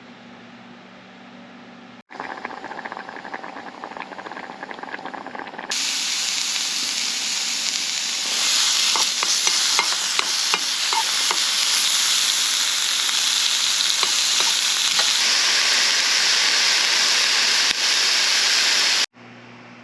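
Sizzling, like food frying in a hot pan, with scattered pops and crackles. It starts abruptly about two seconds in, grows louder twice, and cuts off suddenly near the end.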